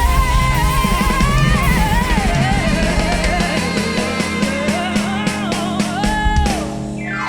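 Live rock band playing: drum kit, bass and guitar under a wavering lead melody line, with fast drum strokes in the second half and a downward sweep just before the music cuts off at the end.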